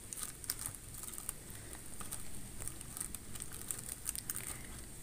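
Faint, irregular crackling and ticking of a paneer and vegetable filling cooking in an aluminium pan over a low flame.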